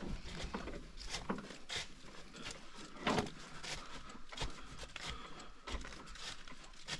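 Irregular knocks, scuffs and rustling of a canoe and gear being hauled over a portage trail, with one louder thump about three seconds in.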